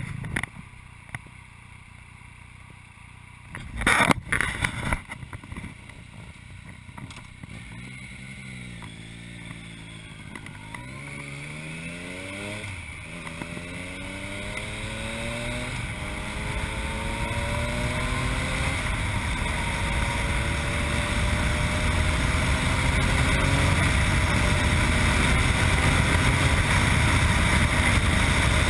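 Yamaha MT-09's three-cylinder engine through an Akrapovic exhaust, pulling away and accelerating through the gears: the engine note climbs and drops back at each upshift, with wind noise building as speed rises. A few sharp loud knocks come in the first seconds, the loudest about four seconds in.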